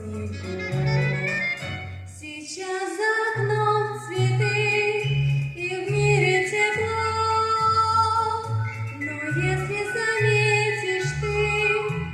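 A solo voice singing a song over an instrumental accompaniment, with a bass line moving in held notes underneath.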